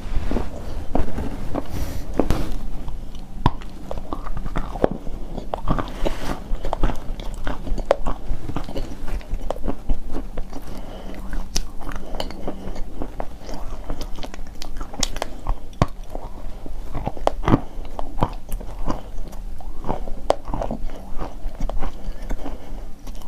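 A person biting and chewing pieces of crunchy chalk: many sharp, irregular crunches and crackles.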